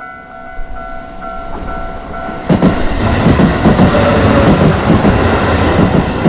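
A Japanese level-crossing warning bell rings in a steady repeating ding, about two strikes a second. About two and a half seconds in, a Keisei Chiba Line train reaches the crossing and passes through close by, loud, with wheels clattering over the rail joints and drowning out the bell.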